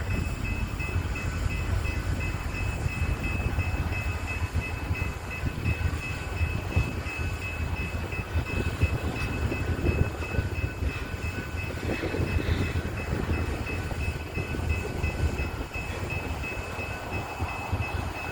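BNSF coal train rolling on the track: a steady low rumble of wheels and cars with a faint, steady high-pitched whine over it.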